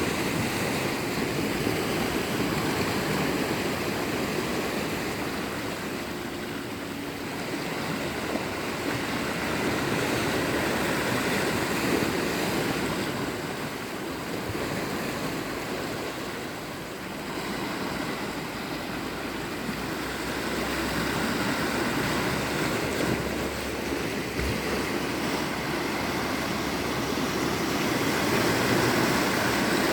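Sea waves washing onto the shore, a steady rush that swells and eases every few seconds.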